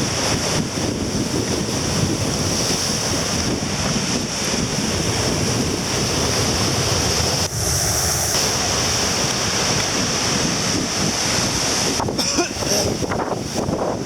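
Strong wind buffeting the microphone over the continuous rush of surf breaking on the shore.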